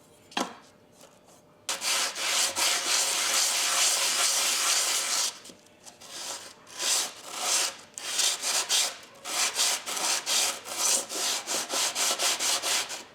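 Hand plane blade rubbed flat on sandpaper to lap its back: a light knock near the start, a few seconds of continuous scraping, then quick back-and-forth scraping strokes, a few a second.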